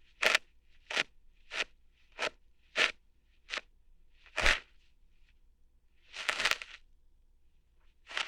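Ear hairs being plucked out, heard as short crackly snapping pops about every half second. After a pause there is a longer crackling stretch, then one more pop near the end.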